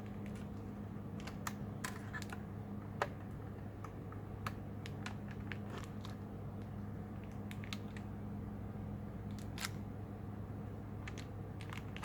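Scattered small clicks and taps of an HP laptop's plastic and metal parts being handled during disassembly, the sharpest about three seconds in, over a steady low hum.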